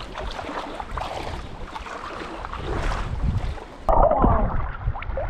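Shallow creek water splashing and sloshing close to the microphone, with wind rumbling on the mic. A louder burst of splashing comes about four seconds in.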